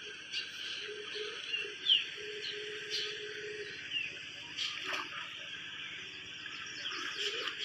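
Outdoor ambience: a steady high hiss with a few short bird chirps and occasional faint clicks.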